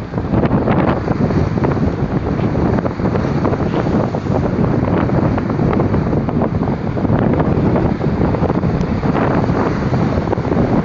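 Strong wind, estimated at about 70 km/h, buffeting the microphone in a loud, continuous rush, with lake waves breaking against the shore underneath.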